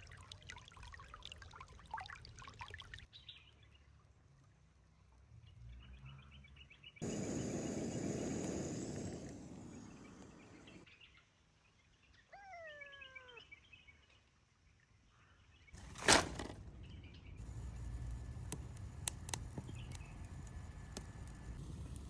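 Short clips of forest sound cut one into the next: a few seconds of running water, a bird's falling call given three times, and a single sharp knock, among scattered clicks.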